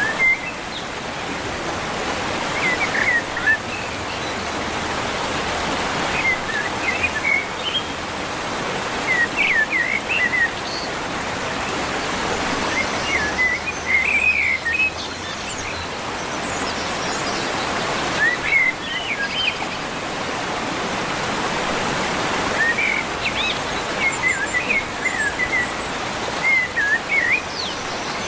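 A songbird singing short, quick, twittering phrases every few seconds over a steady rushing background noise.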